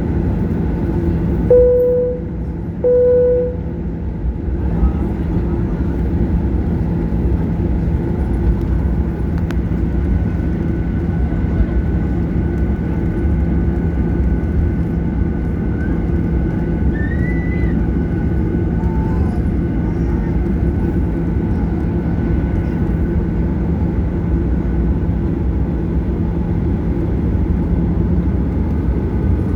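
Boeing 737-800 cabin noise: the CFM56-7B engines and airflow make a steady drone with a low hum. Two short, identical chime tones sound about a second and a half in and again about three seconds in.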